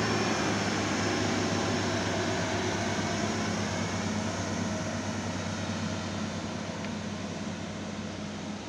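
Two-car passenger multiple unit running along the track away from the listener: a steady low hum over rolling noise, slowly fading as it recedes.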